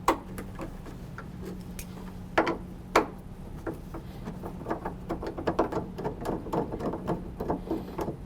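Many small clicks and ticks of hand work on refrigerator door and hinge hardware, coming thicker in the second half, with a louder knock near the start and two more about two and a half and three seconds in, over a steady low hum.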